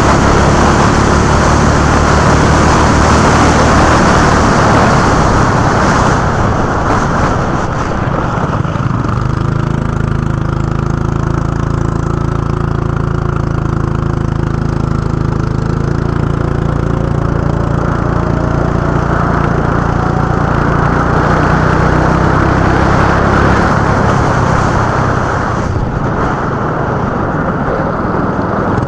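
Go-kart engine running on track, picked up by the kart's onboard camera; the engine note drops to a lower, steadier drone about a third of the way in and builds again near the end.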